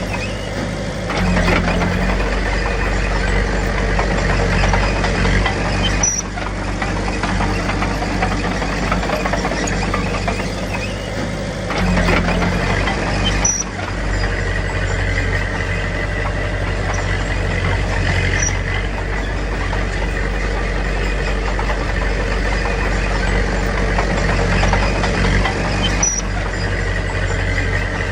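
Heavy diesel engine of earthmoving machinery running steadily under load, with brief dips in level a few times.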